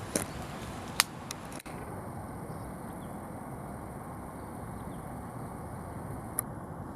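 Steady rush of strong wind, with a few sharp clicks or knocks, the loudest about a second in.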